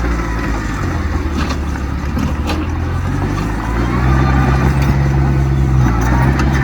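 Heavy diesel engine of earthmoving machinery running steadily, growing louder with a slightly higher note about four seconds in as it takes on more load.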